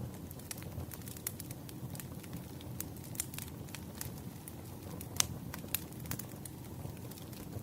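Wood fire crackling, with frequent sharp pops over a steady low rumble of flames; the loudest pop comes about five seconds in.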